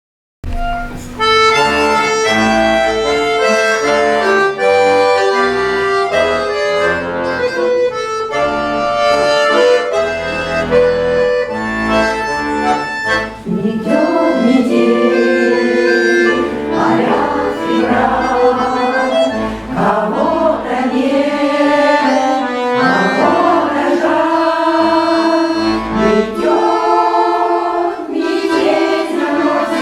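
Accordion playing a folk melody as an introduction, then a folk choir comes in singing with the accordion about halfway through.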